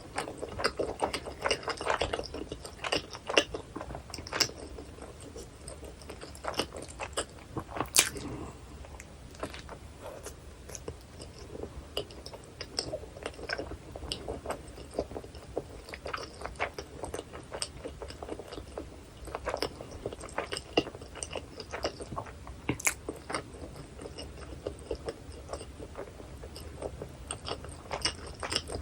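Close-miked eating of a hot dog topped with onion, chili and cheese sauce: wet chewing and biting, made of a dense run of small irregular mouth clicks with a few sharper ones now and then.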